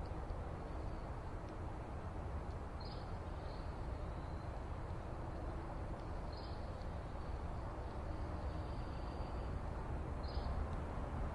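A bird gives a short high call three times, about every three and a half seconds, each with a faint trailing note, over a steady low rumble.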